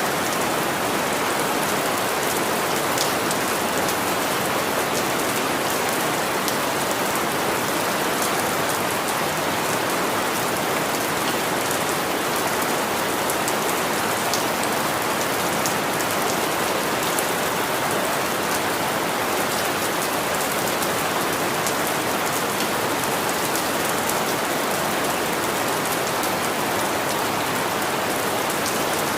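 Steady rain falling, a dense even hiss with many fine drop ticks on a hard surface.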